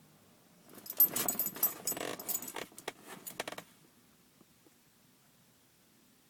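A rapid clatter of sharp clicks for about three seconds, starting just before a second in, from small hard objects being handled.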